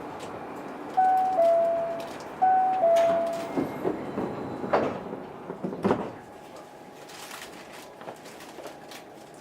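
Osaka Monorail 1000-series car's door chime, a two-note falling ding-dong sounded twice, followed by the sliding doors moving and shutting with a few knocks and two louder thuds.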